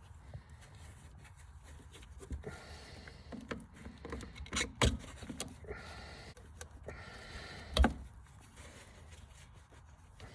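Hand tools working on metal fittings in a cramped engine bay while a starter motor cable is being disconnected: irregular rubbing and scraping with scattered clicks and two sharp knocks, about five and eight seconds in.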